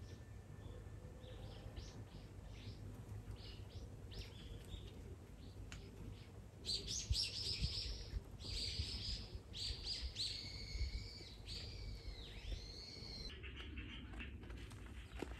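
Wild birds calling and singing: scattered short high chirps at first, then from about seven seconds in a louder run of song with sweeping whistled notes that stops at about thirteen seconds.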